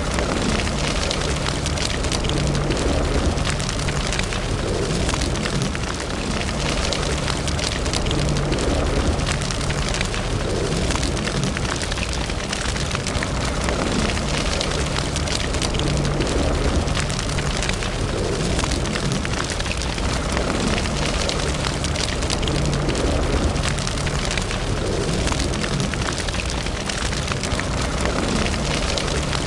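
Fire burning in a fireplace: continuous crackling and frequent small pops over a low, steady rush of flame.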